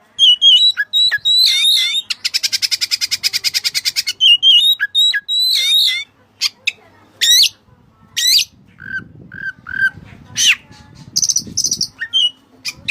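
Oriental magpie-robin (white-breasted kacer) singing loudly in a varied song: quick whistled phrases, a fast rattling trill about two seconds in, sharp rising sweeps, and a few lower repeated whistles later on.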